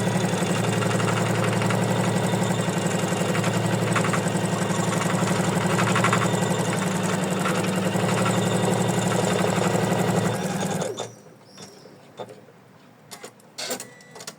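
Embroidery machine stitching the placement line at a steady, fast pace, then stopping abruptly about eleven seconds in when the line is finished. A few faint light clicks follow.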